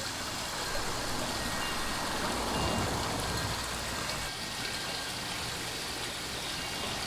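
Pond waterfall running, a steady splash of falling water. A low rumble, like distant road traffic, sits under it for the first four seconds or so and then drops away.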